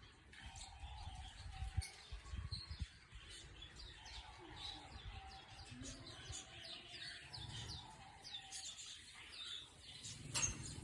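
Sun conure making quiet chirps: many short, quick notes that slide downward, coming in a steady run.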